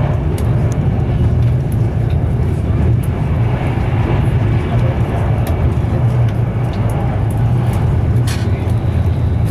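Steady low rumble and rush of a Class 390 Pendolino electric train running at speed, heard inside the passenger coach, with a few faint clicks and a brief rattle about eight seconds in.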